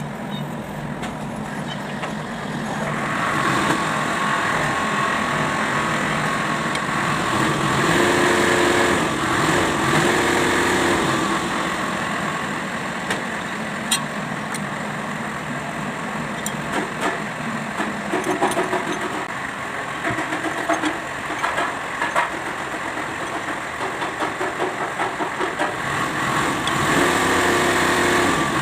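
Kubota D905 three-cylinder diesel engine running steadily, getting louder about three seconds in.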